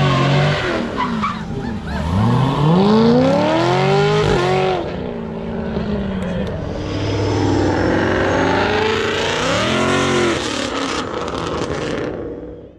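Chevrolet Corvette's V8 revving hard as the car accelerates away, its engine note climbing steeply about two seconds in and climbing again near the end before the sound cuts off.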